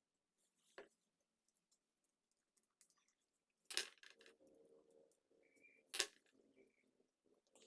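Two sharp clicks of small hard objects being handled, about two seconds apart, against near silence.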